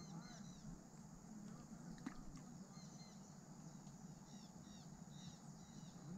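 Faint birds chirping in short, repeated high calls, with a single click about two seconds in.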